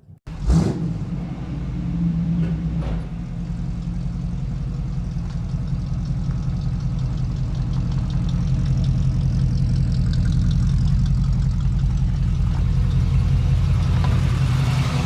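2012 GM LML Duramax 6.6-litre V8 turbodiesel on a cold start: it fires suddenly about half a second in and settles into a steady idle.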